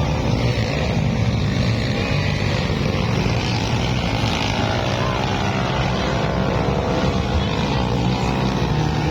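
Several underbone motorcycle engines running and revving together, their pitch rising and falling.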